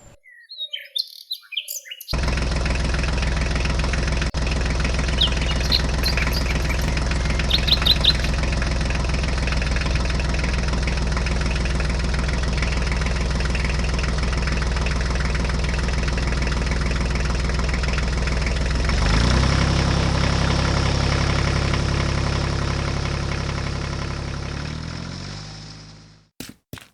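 Tractor engine idling steadily, starting abruptly, changing pitch about two thirds of the way through and fading out near the end. A few short bird chirps come a few seconds in.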